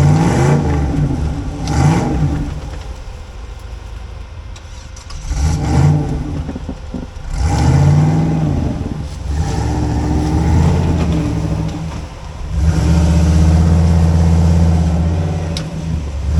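Off-road rock-crawling rig's engine revving in repeated bursts, the pitch rising and falling several times, then held steady at high revs for a few seconds near the end.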